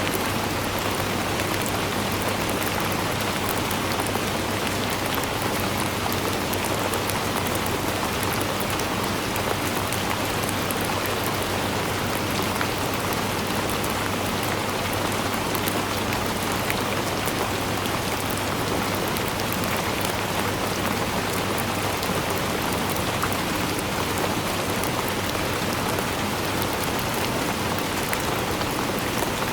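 Steady rainfall: a dense, even hiss of falling rain with countless small drop hits, unchanging throughout.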